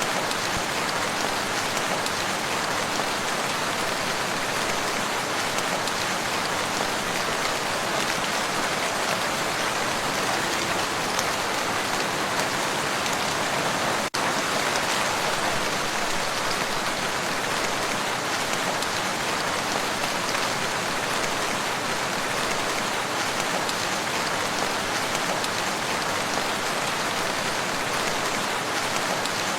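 Steady rain falling on a lake, a dense, even patter of drops on the water, with a momentary dropout about halfway through.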